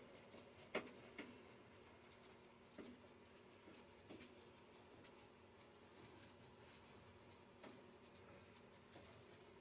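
Near silence with a few faint, scattered clicks and light scraping: a screwdriver with a tamper-proof Torx bit backing a screw out of a microwave's sheet-metal shell.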